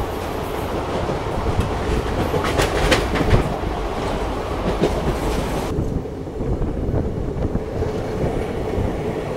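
A passenger train running along the track, heard from aboard: a steady rumble with the wheels clacking over rail joints, a cluster of sharp clacks about two to three seconds in. About six seconds in the hiss drops away and a lower rumble continues.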